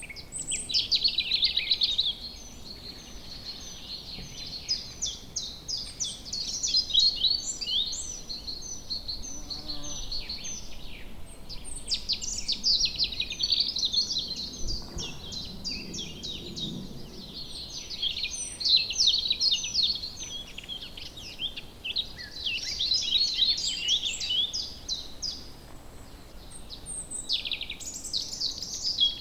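Several small songbirds singing and chirping in woodland, with quick, high, overlapping phrases that come and go in bursts over a low background hiss.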